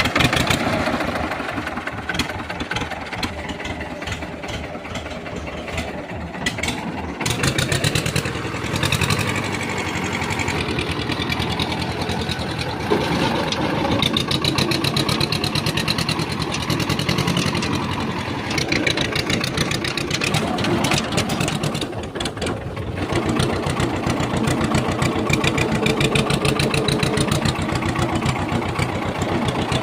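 Tractor engine running steadily with a fast, even firing beat, a little louder from about seven seconds in.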